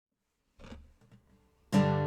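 A faint rustle and a small click over near silence, then an acoustic guitar chord strummed near the end, ringing on.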